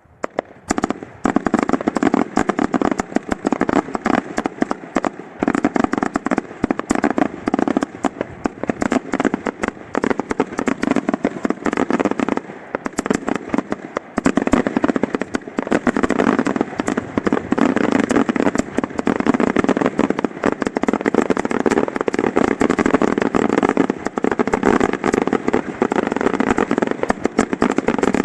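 Fireworks finale: a dense, unbroken barrage of shell launches and bursts firing in rapid succession, starting about half a second in after a brief lull.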